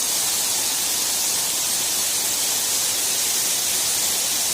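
A waterfall's steady rushing, an even hiss that does not change.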